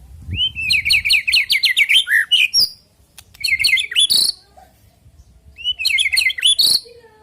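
White-rumped shama (murai batu) singing: three bursts of rapid, repeated whistled notes, the first about two seconds long and the others about a second each, with short pauses between.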